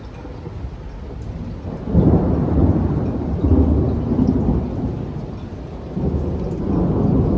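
Thunder rumbling over steady rain during a thunderstorm: the deep rumble swells suddenly about two seconds in, rolls on and fades, then swells again about six seconds in.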